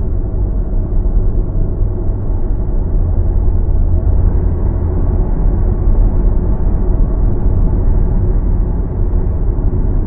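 Car driving along, a steady low rumble of road and tyre noise.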